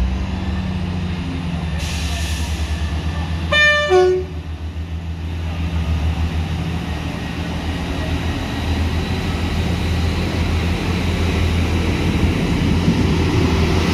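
Class 158 diesel multiple unit arriving: a steady low diesel engine drone that grows louder as the train draws in. A short two-tone horn, a higher note then a lower one, sounds about three and a half seconds in, just after a brief hiss.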